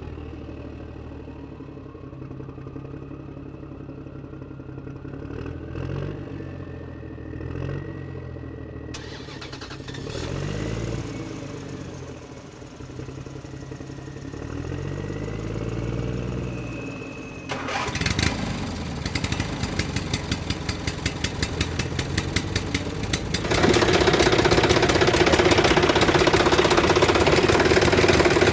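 A motor engine revving up and falling back several times. It then settles into a knocking idle of about three beats a second, and runs louder and steadier near the end.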